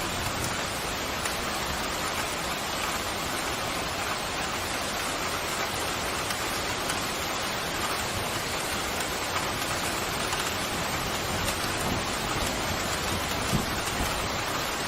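Steady pouring rain, an even hiss of many drops, with a brief low thump near the end.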